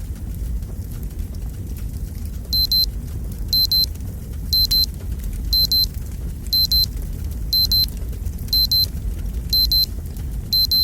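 Fireplace fire sound with a low rumble and light crackle. About two and a half seconds in, a digital alarm-clock beeping starts: clusters of quick, high-pitched beeps repeating about once a second, signalling that the countdown timer has run out.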